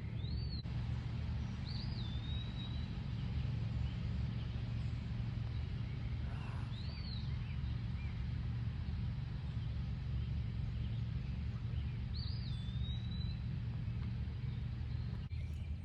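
A bird calling four times, each a quick rising-and-falling chirp, two of them trailing into a short level whistle, over a steady low engine hum.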